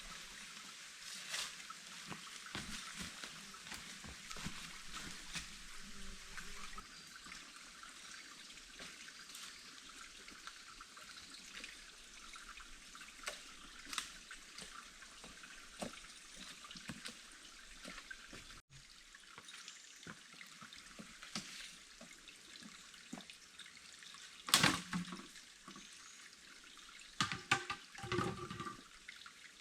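Water trickling steadily, with scattered small taps and clicks. A louder knock comes about 24 seconds in, and a few more knocks come near the end.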